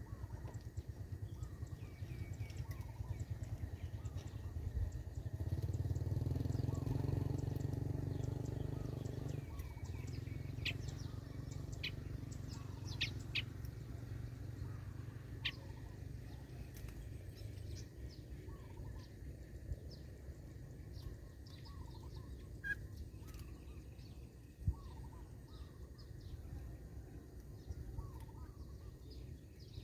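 Small birds chirping with short repeated notes every second or so. A low hum swells about six seconds in and fades near ten seconds, and a few sharp high ticks sound in the middle.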